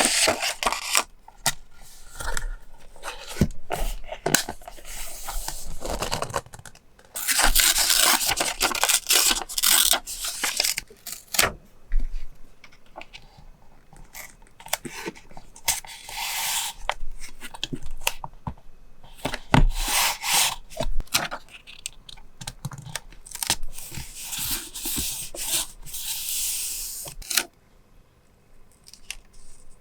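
Paper handled close up: repeated bursts of tearing and rubbing lasting a second or a few seconds, with sharp taps and clicks in between. It quietens near the end.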